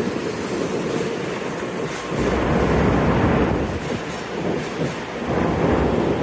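Sakura Shinkansen train pulling out of the station: a rumble of wheels and rushing air that swells in heavy waves about two seconds in and again near the end, with wind buffeting the microphone.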